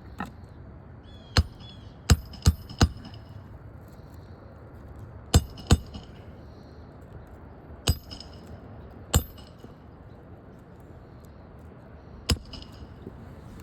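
Metal hand tools striking and clinking on an asphalt shingle roof: about nine sharp metallic taps at irregular intervals, some in quick pairs, each with a brief ring.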